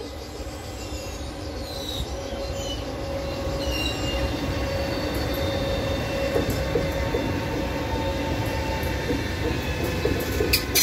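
Trenitalia Frecciargento Pendolino high-speed train passing close by at speed: a rumble of wheels on rail that grows louder, with thin steady tones above it, and a quick run of sharp clicks near the end as the bogies pass.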